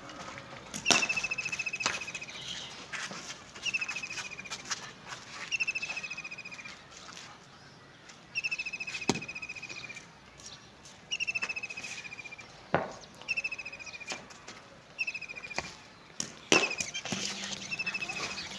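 A songbird repeating a short, rapid, slightly falling trill about every two to three seconds. Sharp knocks or clicks come now and then, several of them loud.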